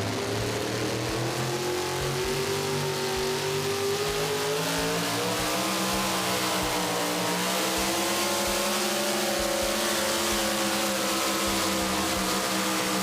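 Super modified four-wheel-drive pulling truck running at full throttle down the track while pulling the sled. The engine note climbs slowly and steadily through the run.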